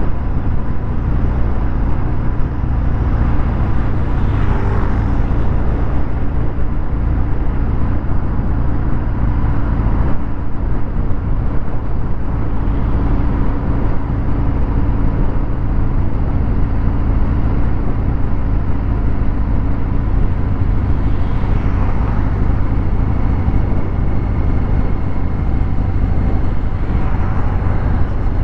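Harley-Davidson Fat Bob 114's Milwaukee-Eight V-twin running through a Vance & Hines 2-into-1 exhaust, with a mostly steady engine note and brief pitch changes a few times.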